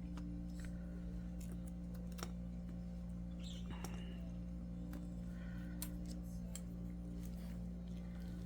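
Faint, scattered small clicks and ticks of hand tools working on an iPad 2 being taken apart for a glass replacement, over a steady low electrical hum.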